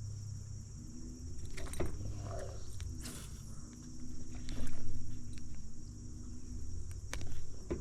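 Crickets chirring steadily, over a low steady hum, with a few sharp knocks and handling clatter in the boat, loudest about five seconds in.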